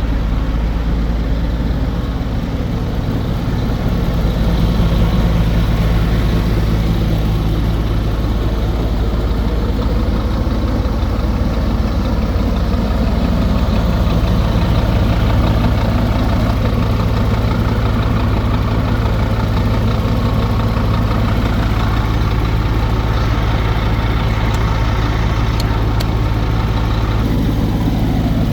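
Scania P230 truck's five-cylinder diesel engine idling at a steady low pitch.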